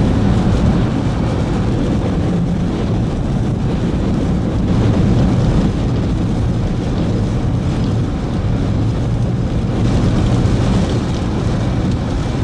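Strong wind buffeting the microphone in a storm: a steady low rumbling rush that swells and eases slightly.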